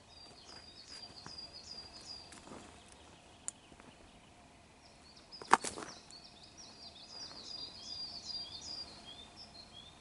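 A small songbird singing two short phrases of quick, repeated chirping notes, the second stepping lower at its end. A sharp click about halfway through is louder than the song.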